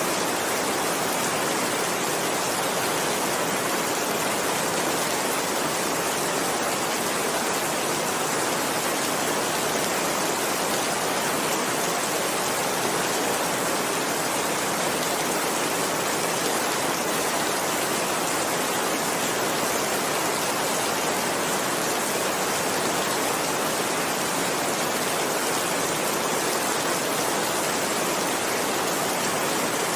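Heavy rain falling steadily, an even hiss with no breaks or distinct drops standing out.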